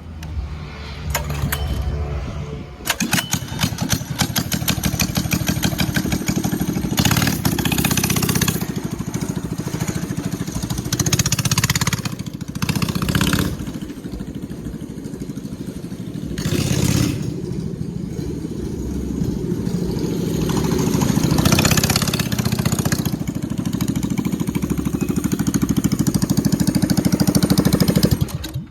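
Mini bike's 212cc single-cylinder four-stroke engine running, blipped up in revs several times and held higher over the last several seconds, then cutting off suddenly. The owner calls it sounding good.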